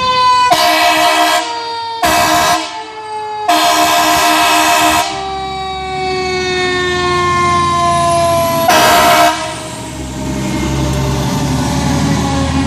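Fire truck responding: its mechanical siren winds down in one slow, steady fall in pitch, while the air horns blast four times, the third blast the longest, over a low engine rumble.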